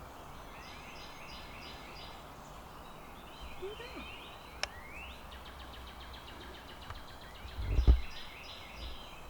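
Songbirds singing: several birds repeat series of short, high notes and trills. A sharp click comes about halfway through, and a low thump near the end.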